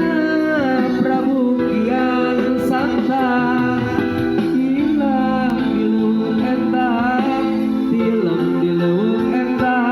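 A street busker singing a slow melody with long held, wavering notes, accompanied by guitar.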